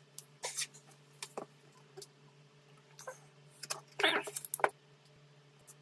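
Scattered small clicks and taps of hard objects being handled, with a brief scraping rustle about four seconds in, over a faint steady hum.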